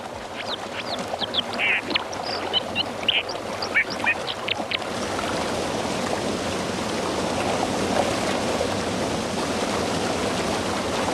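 White-throated dipper singing: a run of quick, high chirps and short whistles over the steady rush of fast water. The song stops about five seconds in, and the rushing water goes on alone, growing slightly louder.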